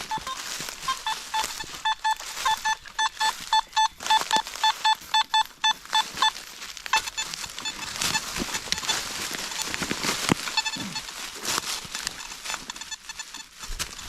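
Metal detector sounding a rapid series of short, same-pitch beeps for several seconds. Then come fainter, scattered beeps over rustling.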